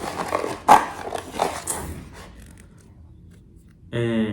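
Plastic packaging of a blind-box figure being handled and opened: crinkling and clicking, with one sharp knock, dying down after about two seconds. Near the end a short, steady hum-like sound.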